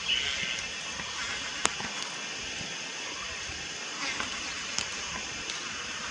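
Juvenile Malayan night heron calling: a short raspy call at the start and a fainter one about four seconds in, over a steady hiss, with a sharp click about a second and a half in.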